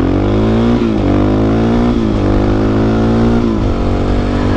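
Suzuki DR-Z400SM's single-cylinder four-stroke engine accelerating hard from a stop. It revs up and drops in pitch at three upshifts, about one, two and three and a half seconds in.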